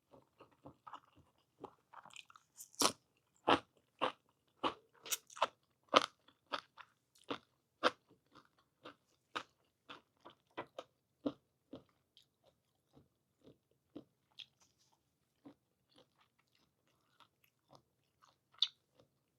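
Close-up mouth sounds of chewing blanched whole squid: a run of sharp, sticky clicks and squelches, fast and loud in the first half, then slower and scattered.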